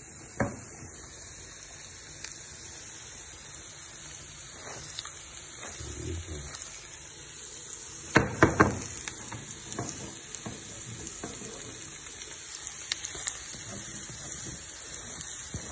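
Food sizzling steadily on a stove, with a sharp knock near the start and a quick run of loud utensil knocks against cookware about eight seconds in.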